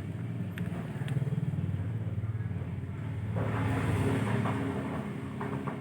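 Engine running steadily, with a low hum that swells louder for about a second, three seconds in.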